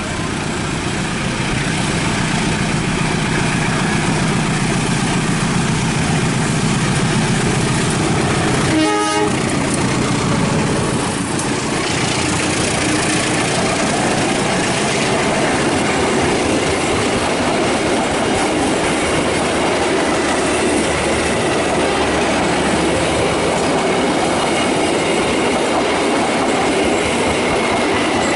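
A train passing close by: steady, loud rumble and wheel clatter on the rails, with a brief horn-like tone about nine seconds in.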